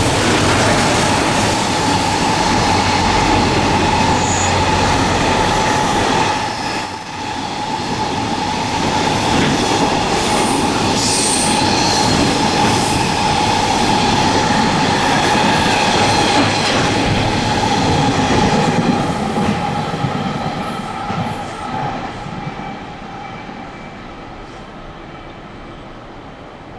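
Train passing at speed: a loud, steady rush of wheels on rails with a steady high-pitched whine over it. There is a brief dip about seven seconds in, and the sound fades away over the last several seconds as the train recedes.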